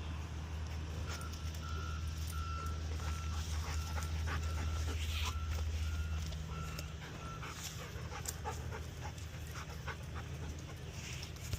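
Belgian Malinois tracking dog panting hard as it works a track. Behind it a vehicle's reversing alarm beeps about twice a second, starting about a second in and stopping after about six seconds, over a steady low engine hum.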